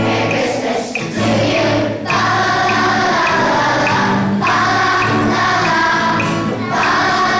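A children's choir singing a song with accompaniment, in held phrases with brief breaks between them.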